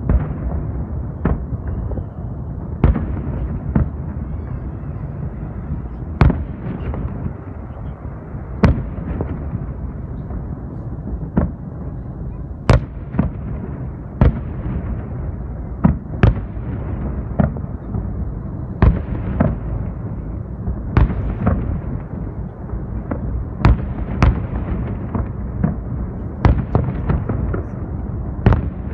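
Fireworks display: aerial shells bursting one after another at irregular intervals, a sharp bang every second or two over a continuous low rumble.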